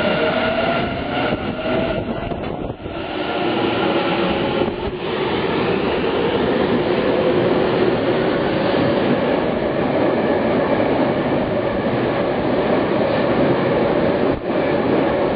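Tobu 50050 series electric train moving through an underground station, its motor whine rising slowly in pitch as it gathers speed, over a steady rumble of wheels on rail.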